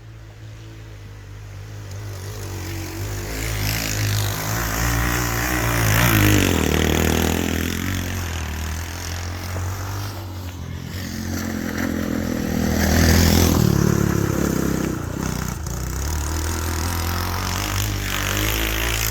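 Small go-kart engine running and revving, its pitch rising and falling. It grows louder over the first few seconds and swells twice, about six seconds in and again about thirteen seconds in, as the kart is driven around.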